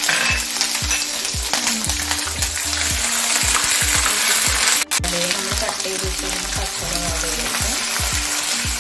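Garlic-ginger paste sizzling as it fries in hot oil in a nonstick kadai, stirred and scraped with a wooden spatula. The sound cuts out for an instant about five seconds in, then the sizzling resumes.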